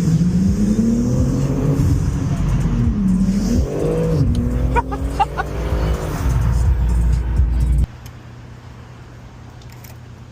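BMW G80 M3's twin-turbo straight-six pulling hard, its pitch climbing and dropping through gear changes, with rap music playing along. About eight seconds in, the sound cuts off abruptly, leaving only a low steady hum.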